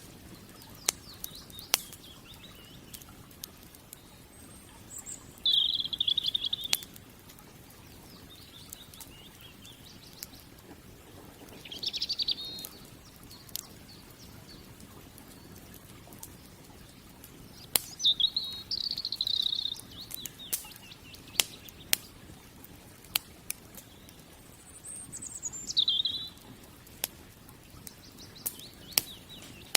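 Firewood crackling, sharp pops every second or so, while birds chirp in four short bursts, the last one sliding down in pitch near the end.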